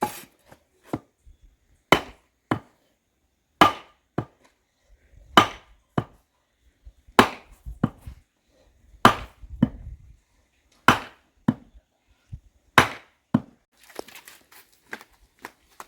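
Repeated heavy blows from a hand tool, about one every two seconds, each followed by a lighter knock, with smaller knocks near the end.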